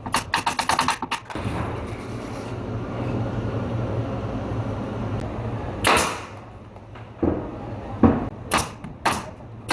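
Carpentry work sounds: a quick run of sharp clicks, then a steady low hum, then one heavy knock about six seconds in and several sharp knocks near the end.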